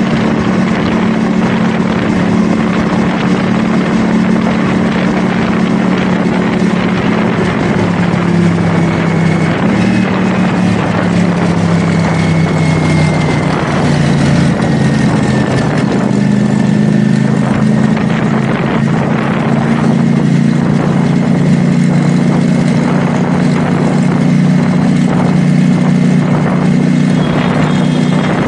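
CFMoto 450SR S motorcycle's parallel-twin engine running under way at steady cruising revs, with wind rush over the microphone. The engine note sags a little about halfway through, then climbs back and holds.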